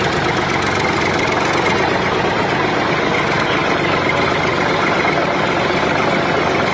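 Small diesel engine running steadily.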